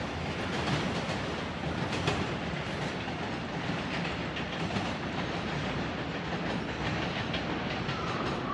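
Container freight train rolling away: a steady rumble of wagon wheels with scattered clicks as they pass over rail joints. A faint high tone comes in near the end.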